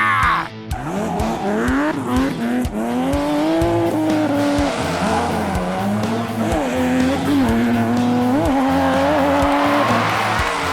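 Car engine sound effect revving, its pitch rising over the first few seconds and then wavering, over background music with a steady beat.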